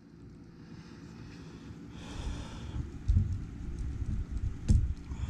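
Handling noise from working small drone parts and screws on a bench: low rumbling and rubbing, a brief hiss about two seconds in, a light knock about three seconds in and a sharper click near the end.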